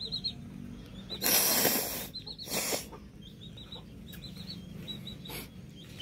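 Birds calling: a steady run of short, high chirps repeating throughout, with two loud, harsh, raspy calls, a longer one just over a second in and a shorter one about two and a half seconds in.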